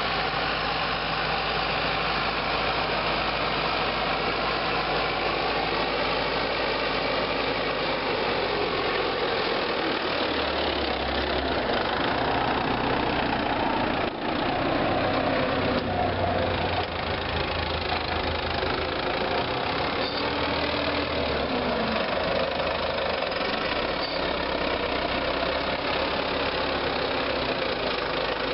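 MTZ 952.4 tractor's diesel engine running steadily, its pitch wavering a little as the engine speed shifts.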